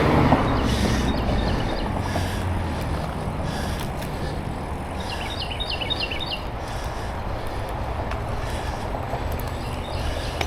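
Wind on the microphone and tyre noise from a bicycle being ridden, with a bird's quick run of high chirps twice, about a second in and again around five seconds in.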